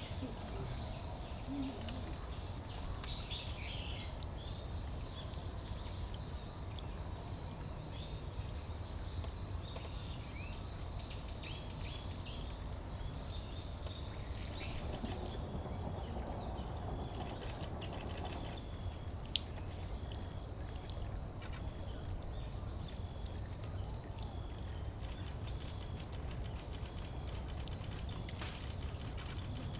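Insects, crickets or similar, trilling in a steady, high, finely pulsing chorus, with a low rumble underneath and a few faint bird chirps. A single sharp click about 19 seconds in.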